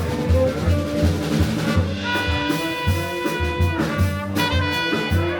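Live small-group jazz: a bass plays steady low notes under drums, and from about two seconds in a horn holds two long notes over them.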